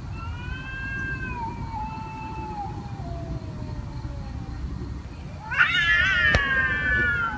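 Domestic cat meowing: a long meow that slowly falls in pitch over the first few seconds, then a louder, drawn-out meow starting about five and a half seconds in.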